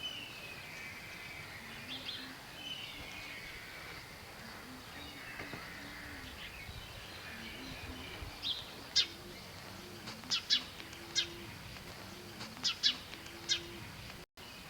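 Small songbirds calling: warbling, gliding phrases for the first several seconds, then a run of about ten short, sharp chirps in quick groups.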